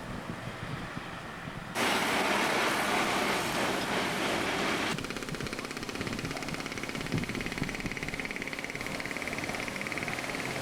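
Motor vehicle noise in the street. A burst of loud rushing noise about two seconds in stops abruptly, and is followed by an engine running with a fast, even beat.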